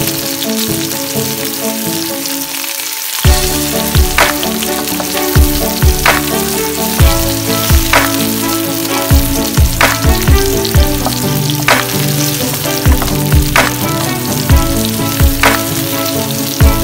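Sliced onions sizzling in hot oil in a wok, stirred with a wooden spatula that knocks against the pan about once a second from about three seconds in.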